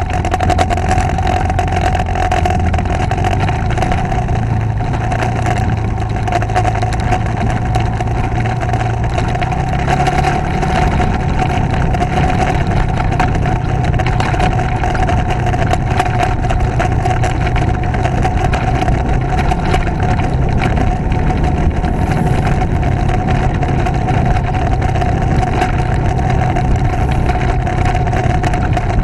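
Motorcycle engine running steadily under way, heard from on the bike with wind and road noise; the engine note rises slightly about ten seconds in.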